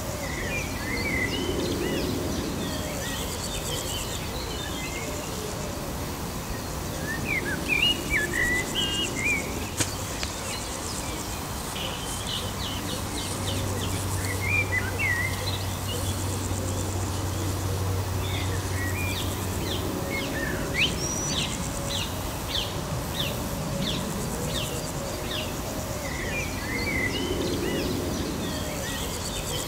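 Songbirds chirping and singing over a steady outdoor background hiss, with a quick series of sharp repeated notes past the middle. A low steady hum comes in near the middle and fades out a few seconds later.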